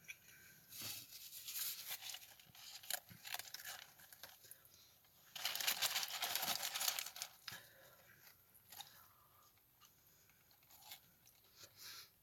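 Paper food wrapping rustling and crinkling as it is handled, with a longer, louder burst of crinkling around the middle.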